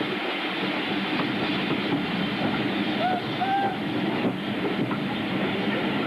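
A train running along the track with a steady rattling noise, and two short squeaks about three seconds in.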